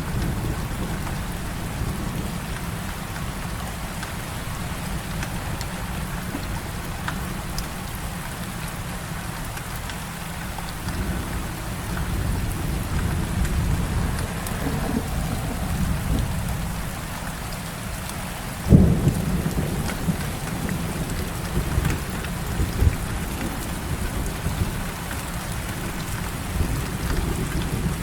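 Heavy rain falling steadily over a low, rolling thunder rumble. The rumble swells near the middle, and a sudden sharp thunderclap about two-thirds of the way through is the loudest moment, followed by more rumbling.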